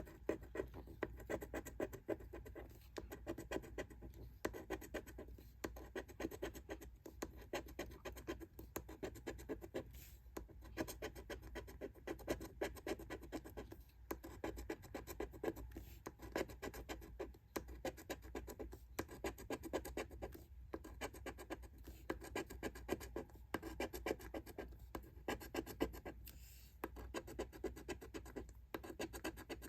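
Coin or scraper scratching the latex coating off a lottery scratch-off ticket: rapid back-and-forth scraping strokes in short runs with brief pauses.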